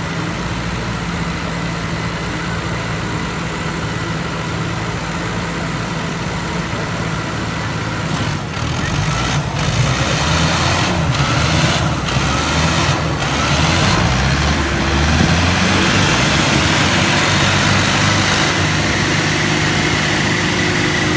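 Tractor engine running steadily, growing louder about eight seconds in as it is worked harder or comes closer.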